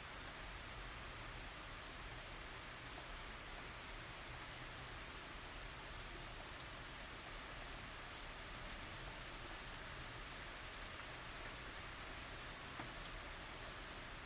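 Steady tropical rain falling, a soft even hiss with many small drop ticks, and now and then a slightly louder drip.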